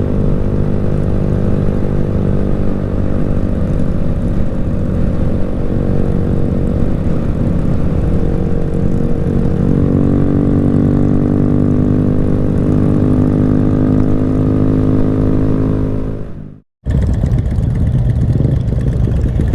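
Motorcycle engine running steadily at cruising speed, heard from on the bike. The pitch holds even, and the sound cuts out for a moment near the end.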